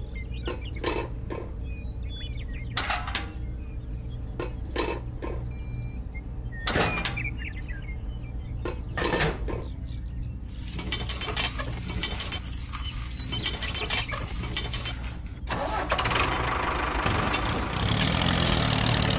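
Small motor of a model construction vehicle running steadily, with scattered knocks and clatters in the first half. From about ten seconds in a dense buzzing sets in, then it changes to a louder steady hum near the end.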